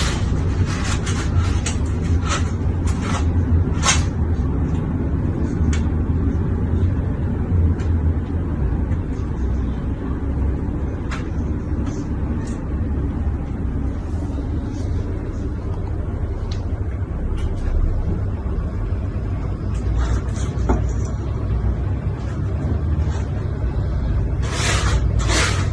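A steady low rumble with scattered clicks and knocks, more of them near the start and near the end.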